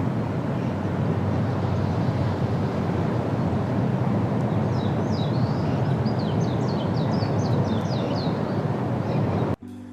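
Steady low outdoor rumble, with a bird giving a quick run of high, falling chirps from about halfway in. The rumble cuts off abruptly just before the end.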